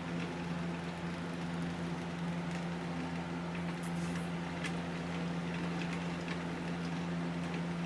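A cobbler's shop machine running steadily with an even electric motor hum, with light scattered ticks and scrapes over it.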